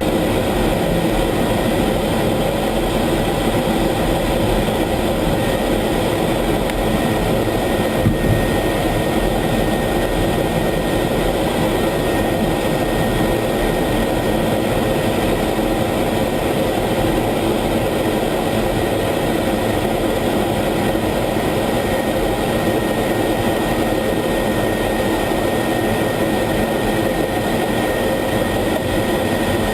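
F-16 jet engine running steadily as heard inside the cockpit: a steady rush of noise with a thin constant whine. There is one brief click about eight seconds in.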